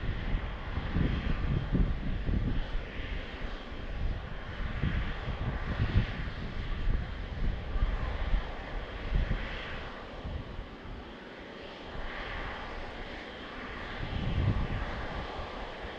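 Twin GE90-115B turbofan engines of a Boeing 777-300ER running, heard as a steady jet rush with an uneven low rumble that swells and fades.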